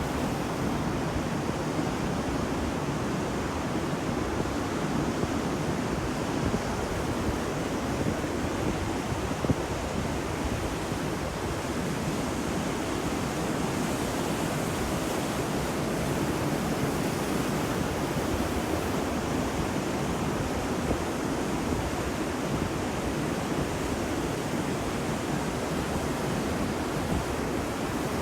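Ocean surf washing on a beach: a steady, even rush of breaking waves with no distinct crashes standing out.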